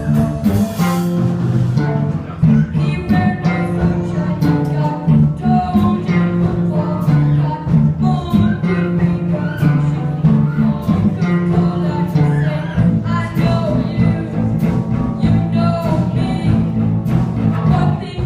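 A live band playing a song with guitar and singing, a steady beat and a strong low end.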